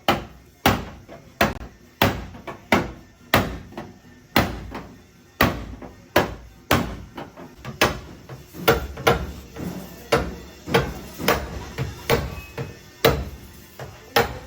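Hammer blows on a car's sheet-steel body panel, about twenty irregular strikes each with a short metallic ring: panel beating out dents in a crash-damaged Suzuki Alto.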